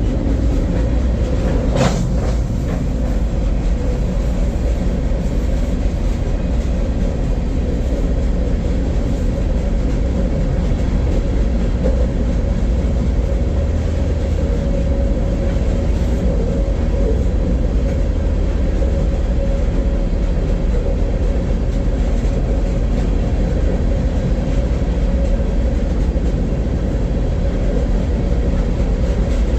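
Freight train running: a steady, loud, low rumble with a faint steady whine over it, and one sharp clank about two seconds in.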